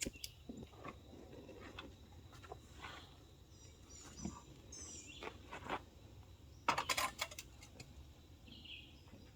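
Quiet outdoor ambience with a few short, high bird chirps about four to five seconds in, scattered faint clicks and knocks, and a quick run of louder clicks about seven seconds in.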